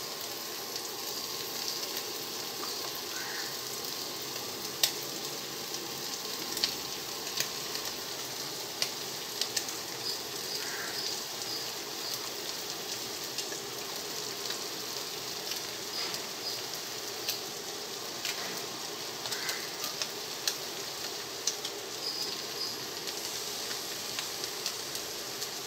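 Vegetables and scrambled egg sizzling steadily in a pan over high heat, with scattered light clicks throughout.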